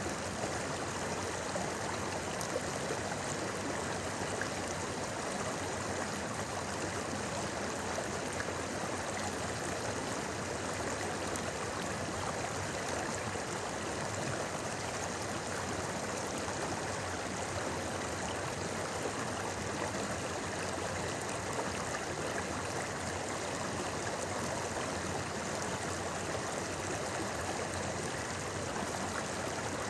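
River water flowing over rocks, a steady babbling rush with no let-up.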